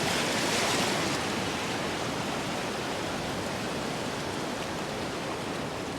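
Sea surf washing onto a sandy beach: a steady rush of breaking waves, a little louder in the first second.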